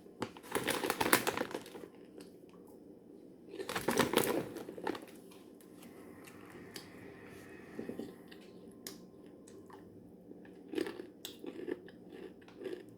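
Popcorn snack bag crinkling loudly in two bursts as it is handled and reached into, followed by quieter, scattered crunching of cheese and caramel popcorn being chewed.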